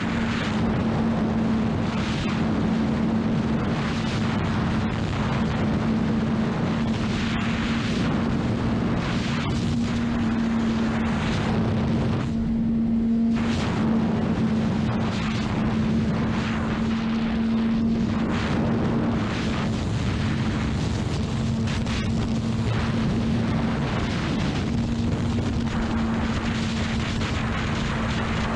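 Honda CBR600RR inline-four engine running at a steady, unchanging pitch while riding at speed, under heavy wind rush on the microphone. The wind rush drops away briefly about halfway through.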